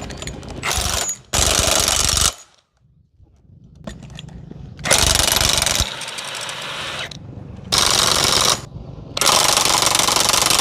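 An air tool in a repair workshop running in five short bursts, each about a second long, starting and stopping abruptly, with a loud hammering rattle.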